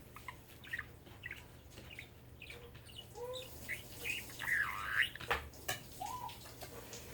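Pet budgerigar chattering: a run of short chirps, squawky notes and warbling glides with a few sharp clicks, getting louder about halfway through.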